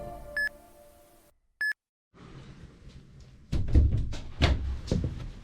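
Music fades out, then two short high electronic beeps a little over a second apart. After a moment of dead silence, a quiet background starts up with a run of sharp knocks and thumps, the loudest sounds here.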